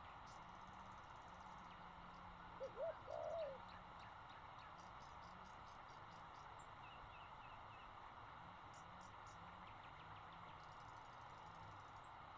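Faint outdoor ambience, a steady hiss, with a bird giving a few short calls, each rising and falling, about three seconds in, and faint high chirps later.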